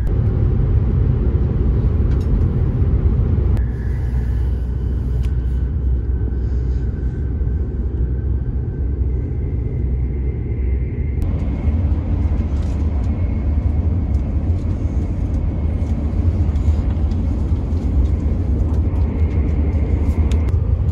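Steady low rumble of an E7/W7-series Shinkansen train, heard inside the passenger cabin. The character of the noise changes abruptly twice, about four and eleven seconds in.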